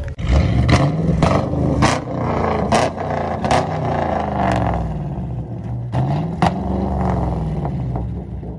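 Chevrolet Camaro's engine revved hard twice, its pitch rising and falling each time, with a string of sharp cracks during the revving.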